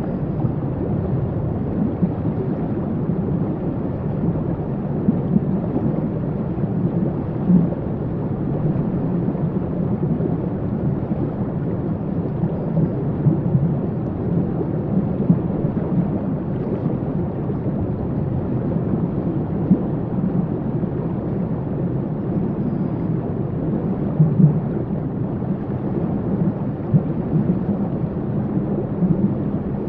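Waterfall running steadily: a deep, muffled rush of falling water, with a few brief louder surges.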